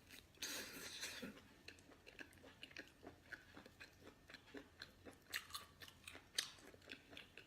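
Faint close-up chewing of whole baby octopus, with wet smacking and small crunching bites. A denser wet burst about half a second in comes as the ink-filled heads burst in the mouth.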